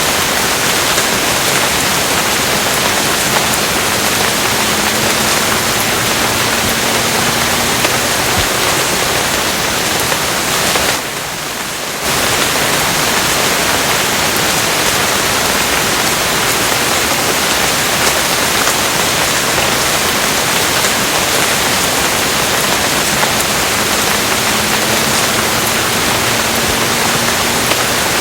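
Steady, heavy rain as a dense, even hiss. About eleven seconds in it briefly dips a little quieter for about a second, then carries on as before.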